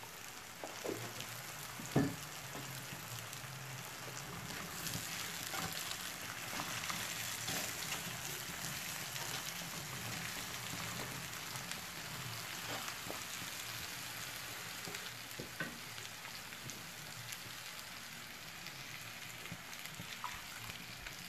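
Spiced young jackfruit pieces sizzling steadily in a clay pot over the heat while they are stirred, with a few light knocks, one clearer about two seconds in.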